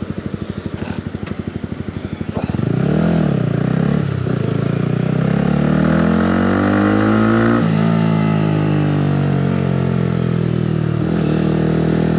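Yamaha R15 V3's single-cylinder engine through an aftermarket exhaust, pulsing at low revs, then blipped up and down about two and a half seconds in. It then pulls away with the pitch rising until a sudden drop at an upshift about seven and a half seconds in, and runs on, easing off and picking up again near the end.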